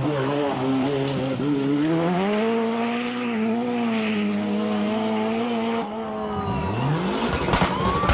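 Rally car engine held at high revs with a steady, slightly wavering note. About six seconds in it drops off, then revs up again in a quick rising sweep, with sharp cracks near the end.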